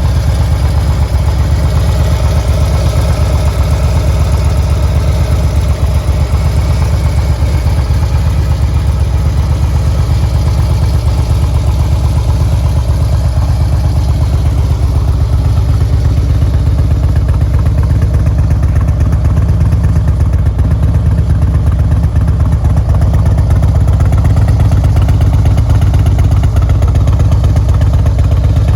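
A 2006 Harley-Davidson Road Glide's fuel-injected 1450 cc Twin Cam V-twin running steadily at idle through S&S oval mufflers, a little louder in the last few seconds.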